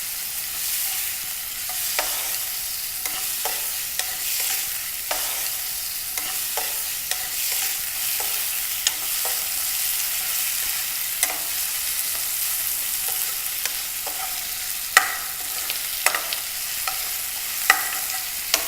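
Boneless chicken pieces sizzling steadily in hot oil with onions in a frying pan, while they are stirred, the utensil clicking and scraping against the pan now and then.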